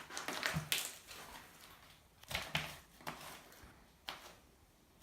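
Homemade slime being pressed and poked, its trapped air bubbles popping in a few short, crackly bursts: one cluster about half a second in, more around the middle and one near the end.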